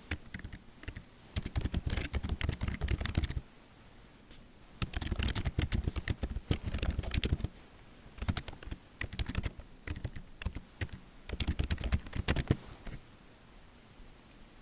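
Typing on a computer keyboard: fast runs of keystrokes in bursts of a few seconds with short pauses between them, falling quiet near the end.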